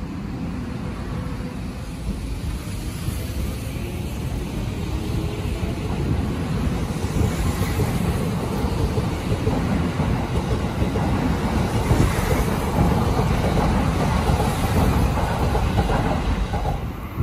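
Tokyo Metro 17000-series electric commuter train pulling out alongside the platform, its wheel and track noise growing steadily louder as it picks up speed. A faint rising motor whine is heard in the first few seconds.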